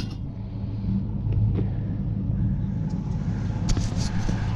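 Vehicle engine running with a steady low rumble, a few light clicks near the end.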